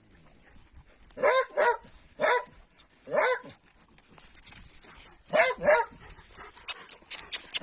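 Dogs barking: six short barks, mostly in quick pairs, then a quick run of short sharp sounds near the end.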